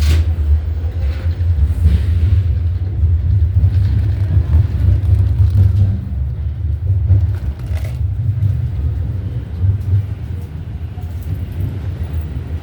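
Low, steady rumble of a subway train, with a sharp click at the start and a fainter one about eight seconds in; the rumble eases a little in the second half.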